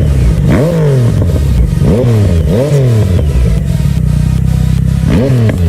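Motorcycle engine idling loudly, with four quick throttle blips: the revs jump up and drop straight back, two close together in the middle and one near the end.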